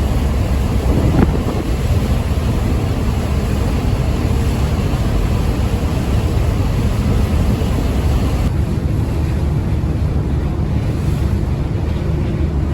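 Wind buffeting the microphone over the steady low rumble and sea noise of the car ferry Ferry Katsuragi under way, with no breaks or distinct events.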